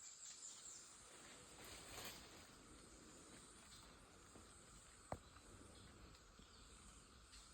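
Faint outdoor ambience: a steady, high insect chirring, with one sharp click a little past halfway.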